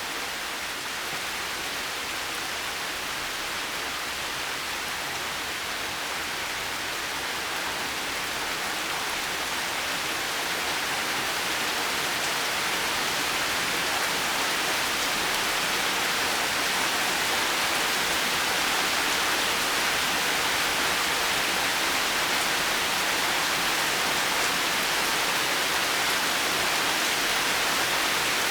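Heavy rain falling steadily, an even hiss with no thunder, growing slightly louder about halfway through.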